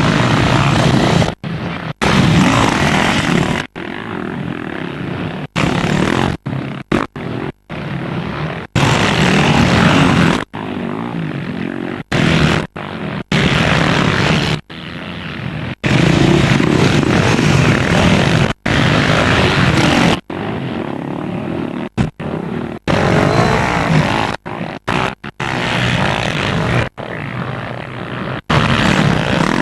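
Dirt bike engine revving and easing off on a ride, picked up by a helmet camera with wind on the microphone. The sound cuts out to silence for brief moments many times.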